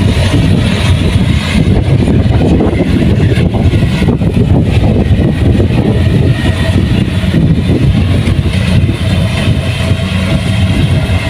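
Kubota rice combine harvester's diesel engine and machinery running steadily under load.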